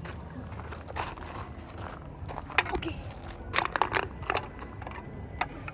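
Bottle being handled close up, giving clusters of crackling, crunching clicks about two and a half and four seconds in.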